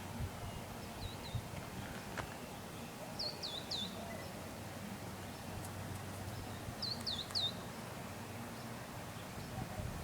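A bird chirping outdoors: short phrases of two or three quick, high chirps, repeated about every three and a half seconds, over a faint steady background hum.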